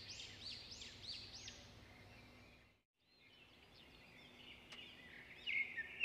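Small birds chirping in a quick run of arching calls, about three a second, over a faint steady hum; the sound fades out just before three seconds in, fades back in, and the chirping returns near the end.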